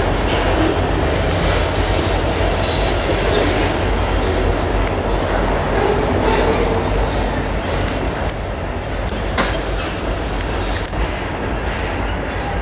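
A CN freight train of tank cars and boxcars rolling past with a steady rumble of wheels on rail, and a few sharp clicks here and there.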